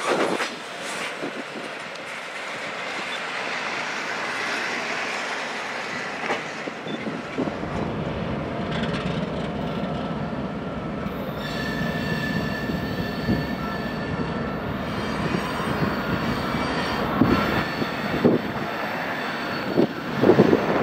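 Empty ethanol freight train rolling slowly through a rail yard: steel wheels rumbling and knocking over the rail joints, with a steady high wheel squeal from about halfway through.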